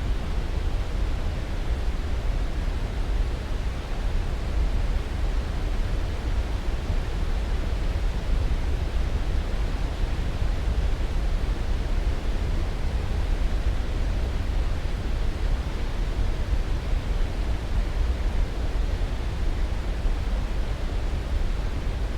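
Steady, unbroken rushing noise, heaviest in the low end and thinning toward the highs, with no change or events: a continuous sleep-aid noise track.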